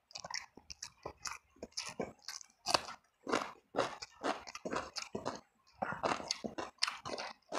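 Close-up mouth sounds of eating: wet chewing and smacking with crunchy bites, several irregular clicks a second, as fried eel, tempe and raw vegetables are chewed.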